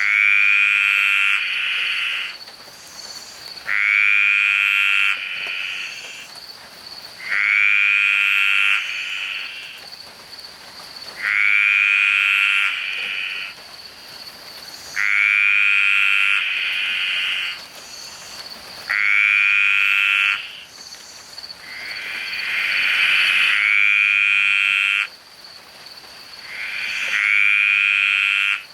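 Green tree frog calling very loudly: a long rasping croak of about a second and a half, repeated about every four seconds, around eight times.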